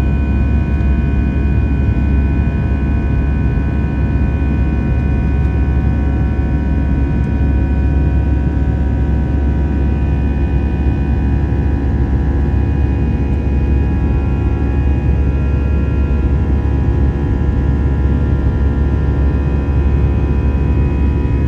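Inside the cabin of an Airbus A320-214, its CFM56 jet engines and the airflow make a steady low rumble and roar, with several steady whining tones on top. A few of the tones drift slightly lower partway through.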